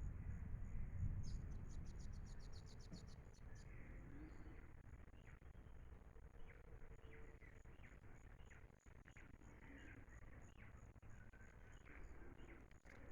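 Amazon rainforest ambience. An insect gives a steady high-pitched pulse about three times a second, another insect or bird trills rapidly for about two seconds near the start, and short bird chirps come in from about five seconds on, over a low rumble.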